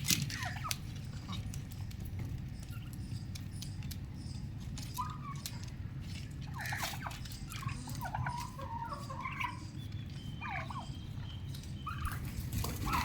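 Young domestic turkeys calling: a scattering of short calls, most of them between about five and eleven seconds in, over a steady low rumble.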